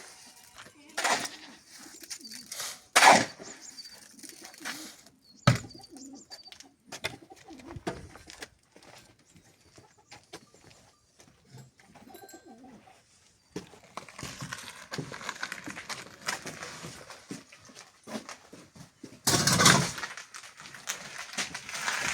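Knocks and scrapes of hand tools working wet cement on a floor: several sharp knocks in the first few seconds, then a longer stretch of scraping with a loud burst near the end.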